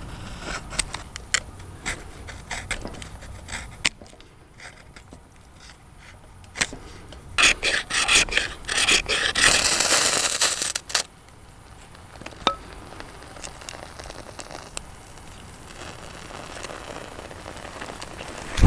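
A ferrocerium fire rod being struck over bark and small shavings to light a campfire without a lighter: a run of quick, loud scraping strikes through the middle, with small clicks and rustles of handling the tinder before and after.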